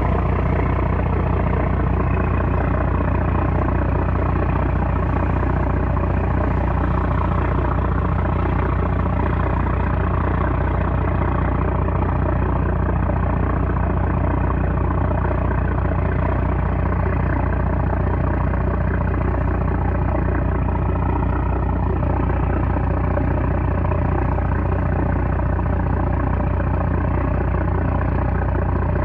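A 330-horsepower trawler's diesel engine running steadily at constant speed, a loud, even drone.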